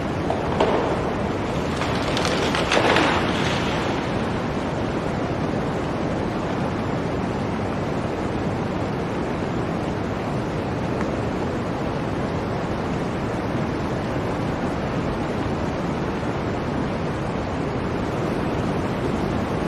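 Blizzard wind blowing steadily, with a stronger gust about three seconds in.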